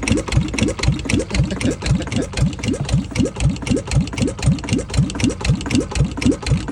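Yanmar 2GM two-cylinder marine diesel running lumpily in heavy, even pulses about three a second. The owner says it is running backwards, in reverse rotation.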